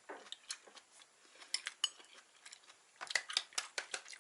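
Eating utensils clicking and clinking against a dish of stir-fried tripe as food is picked up. The light clicks are scattered at first, with a denser run of them about three seconds in.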